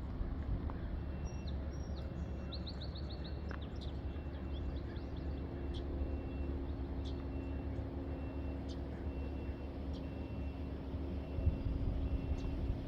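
Small songbirds chirping over a steady low rumble and hum. Around two to three seconds in there is a quick run of about six descending notes, and through the second half a faint high note repeats about once a second.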